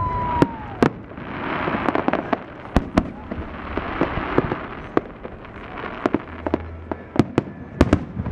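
Aerial fireworks display: a rapid, irregular series of sharp bangs from bursting shells, with crackling between them and a brief whistle near the start.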